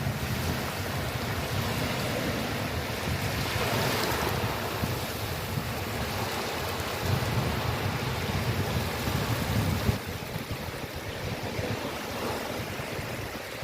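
Sea surf washing in, with wind gusting on the microphone. The sound eases a little about ten seconds in.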